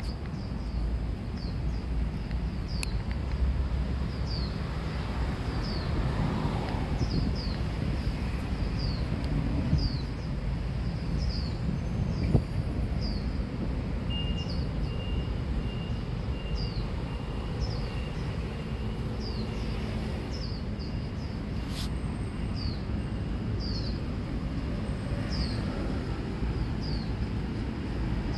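A bird repeating a short, falling high note about once a second over a low, steady rumble of outdoor background noise.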